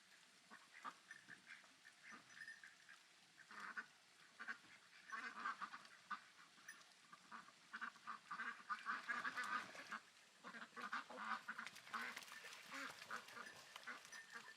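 Farm poultry calling in a busy chatter of many short, repeated calls, growing louder and denser about five seconds in.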